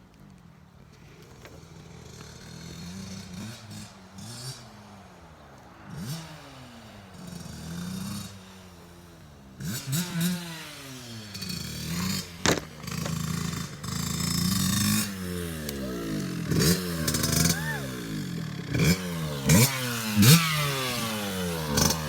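Dirt bike engine revving up and dropping back again and again as it is ridden, faint at first and louder from about ten seconds in, with a few sharp knocks.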